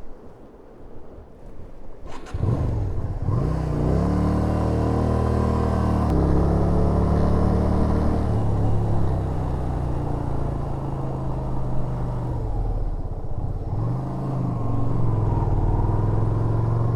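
After about two seconds of low wind noise, a Yamaha SRV250 V-twin motorcycle engine revs up and pulls away, then runs steadily under way. Its note drops and climbs again about 13 seconds in.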